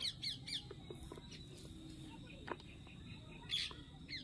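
A bird chirping: a quick run of chirps at the start and another short burst of chirps near the end.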